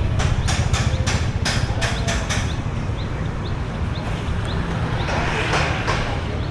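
Street noise with a heavy wind rumble on the microphone. A quick run of sharp clicks or taps comes in the first couple of seconds, and a vehicle rushes past about five seconds in.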